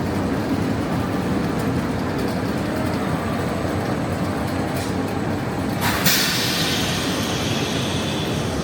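Train rumbling at a station platform, with a sudden hiss about six seconds in that trails off into a steadier hiss.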